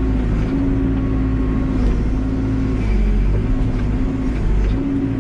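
Backhoe's diesel engine running steadily under load. A hum in the engine note comes and goes every second or two as the hydraulics work.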